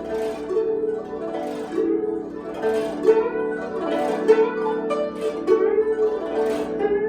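Chinese plucked zither playing a slow melody: single notes plucked one after another, each ringing on, some with a bend in pitch.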